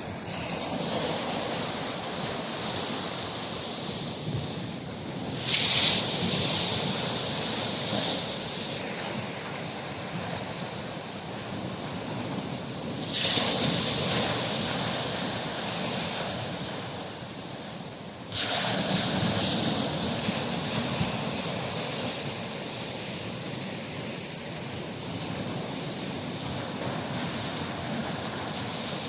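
Red Sea waves washing onto the shore, swelling three times as sets of waves break, with wind buffeting the microphone.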